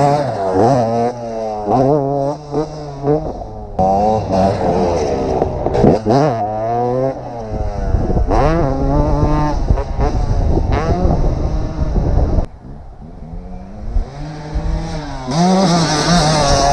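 2010 KTM 250 SX two-stroke dirt bike engine ridden hard, its pitch climbing and dropping again and again as the throttle is worked. The engine drops off briefly about three-quarters of the way through, then picks up again near the end.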